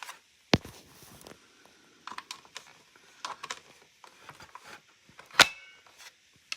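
Hard plastic parts of a Hoover vacuum cleaner being handled and fitted together: scattered clicks and knocks, with a sharp click about half a second in and the loudest one near the end.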